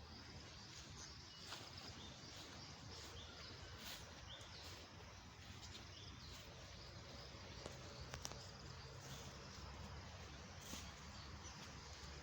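Faint outdoor natural ambience with scattered short, high chirps and a few light clicks.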